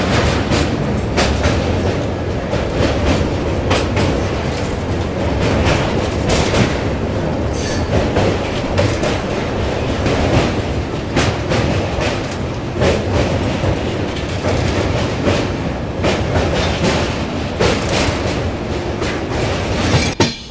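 Passenger train crossing a steel truss railway bridge, heard from an open coach doorway: a steady loud rumble with the clatter of wheels over rail joints. The sound drops away abruptly near the end.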